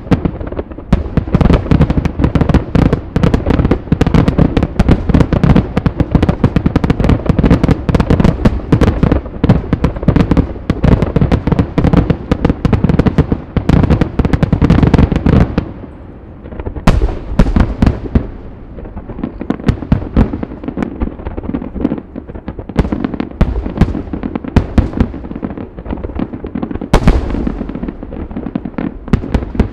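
Aerial fireworks bursting: a dense, continuous barrage of booms and crackles for about the first half, then thinning to scattered bursts with a few sharp, loud cracks.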